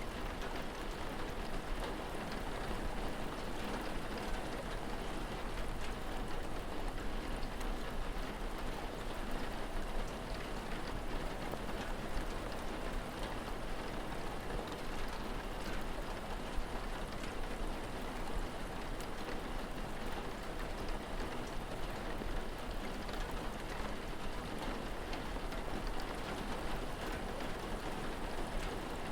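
Steady rain falling, an even hiss of rainfall with many small drops ticking on a surface.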